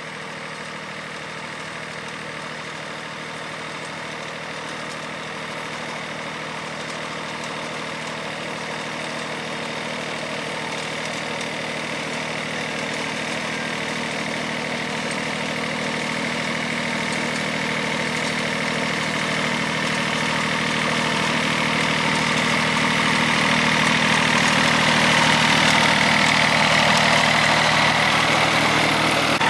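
An engine running steadily at idle, growing gradually louder over the whole stretch.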